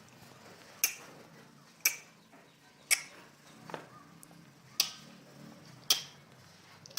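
Six sharp clicks at roughly one-second intervals, with a fainter one between the third and fourth, like a ticking mechanism.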